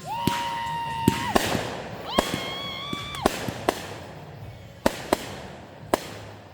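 Fireworks going off: two whistles, each about a second long and steady in pitch, with sharp bangs and pops scattered through.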